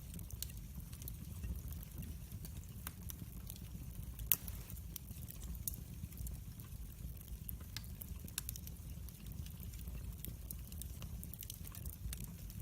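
Wood fire burning in a fireplace: a steady low rumble of flames with scattered crackles and small pops, and one louder crack about a third of the way in.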